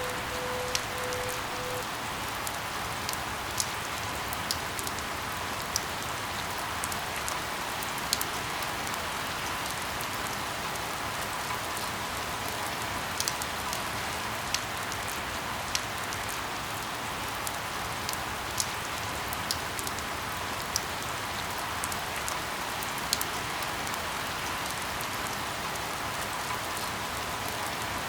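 Steady rain falling: a continuous hiss with individual drops ticking sharply at irregular intervals.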